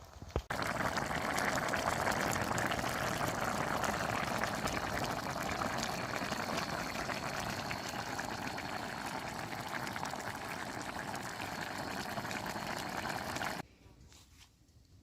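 Water pouring in a steady stream for about thirteen seconds, cutting off abruptly near the end.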